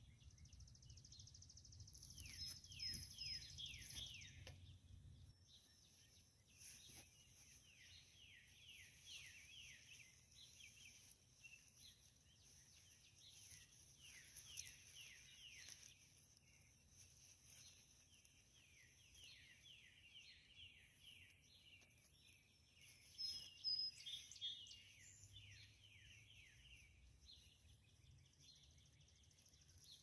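Faint birdsong: a bird sings phrases of quick downward-slurred whistled notes, about three a second, each phrase lasting two or three seconds and coming every few seconds. Higher chirps join in now and then.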